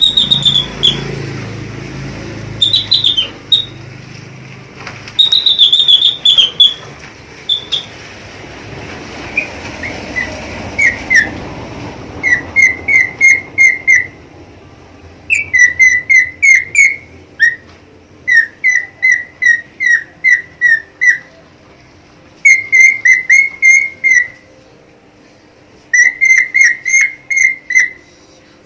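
A pet budgerigar whistling its song: clear whistled notes, higher and gliding in the first few seconds, then quick runs of short repeated notes, about four or five a second, broken by short pauses.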